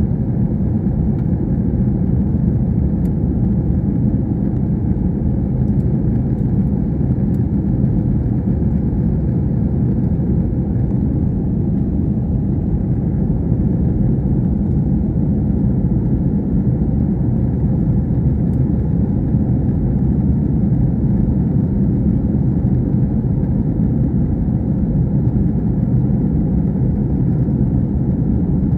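Cabin noise of an Airbus A321 airliner heard from a rear window seat: the jet engines and rushing air make a loud, steady, low noise with no change in pitch.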